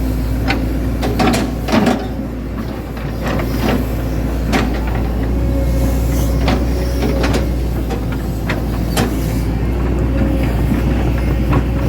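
Hitachi Zaxis 110 excavator's diesel engine running steadily at working speed, with scattered sharp knocks and clanks from the working machine.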